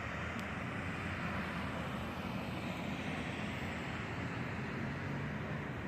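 Steady city traffic noise: vehicles running on the street.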